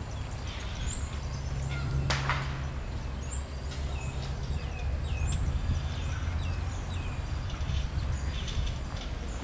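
Birds calling in short, repeated chirps over a steady low background noise, with one sharp click about two seconds in.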